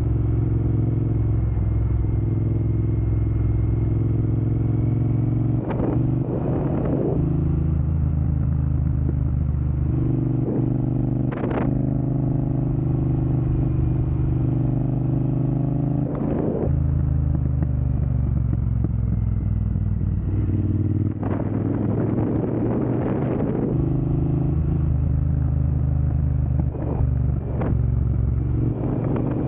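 Triumph Bonneville Speedmaster's 1200 cc parallel-twin engine running through a Jekill & Hyde electronically adjustable exhaust with its valves set to dynamic mode. The engine note holds steady, with a few brief louder bursts and small shifts in pitch.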